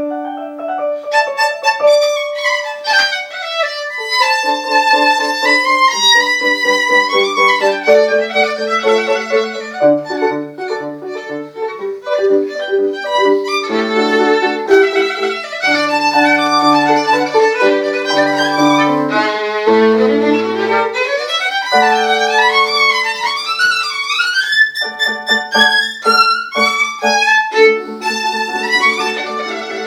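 Violin and piano playing a sonata: a bowed violin melody with sliding runs over piano notes and chords.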